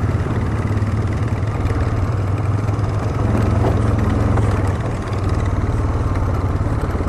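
ATV engine running steadily at low revs. It eases off slightly about five seconds in.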